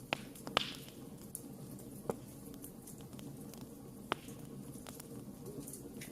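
Wood fire crackling: irregular sharp pops and snaps over a low steady rush of burning. The loudest pops come about half a second in, at about two seconds and at about four seconds.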